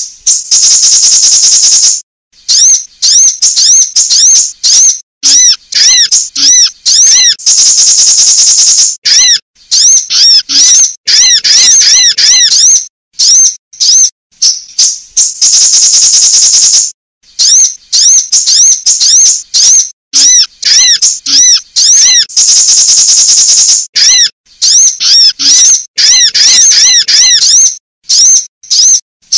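Sunbird calls played as a bird lure: runs of rapid, high, arched chirps, broken every six or seven seconds by a buzzy trill lasting about a second and a half.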